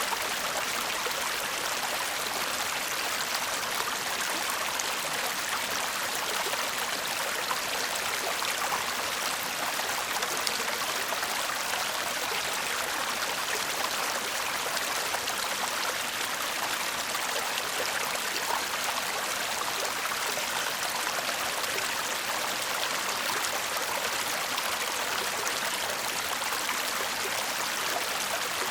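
A shallow stream babbling and trickling steadily over stones, a constant bright rushing with small splashes.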